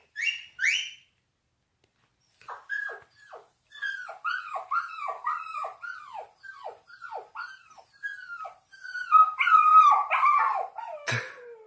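Puppy whimpering and yelping: a run of short cries, each falling in pitch, about two a second, starting a couple of seconds in and growing louder toward the end. A few short high squeaks come first, and a sharp knock comes just before the end.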